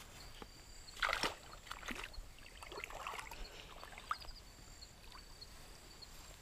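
Soft water splashing and sloshing in a creek as a yabby pot is pulled up out of the water, with a few louder splashes about a second in and again around the middle.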